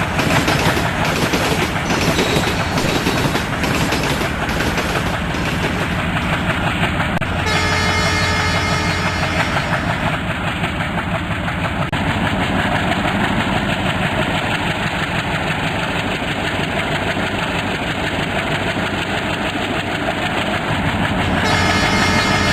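A train running on the rails, with a steady rumble and a rhythmic clatter of wheels over the rail joints, about one and a half beats a second. About seven seconds in, and again near the end, steady higher tones join in, like the train's horn.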